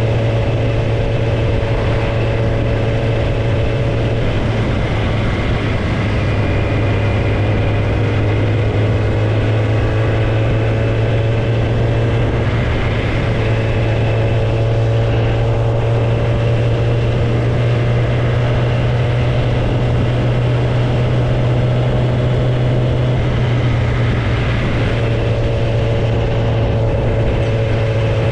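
Kawasaki ZX-10R's inline-four engine running through an exhaust with no tailpipe, held at a steady cruise with a constant low drone. The engine note dips briefly about halfway through and again near the end.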